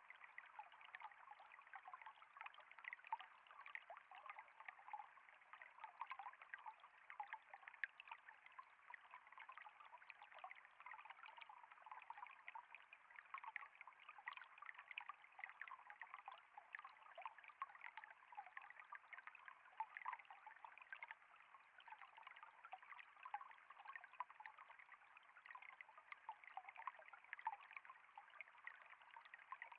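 Faint flowing water trickling steadily, a dense patter of small splashes and gurgles with no deep rumble.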